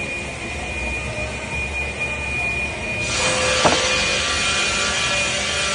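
Woodworking machinery running with a steady high whine. About three seconds in, a louder noise of a saw cutting wood sets in, with a single knock soon after.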